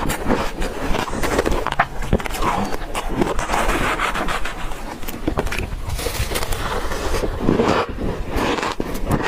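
Ice being crunched and chewed close to the microphone: a continuous run of sharp cracks and grinding crunches.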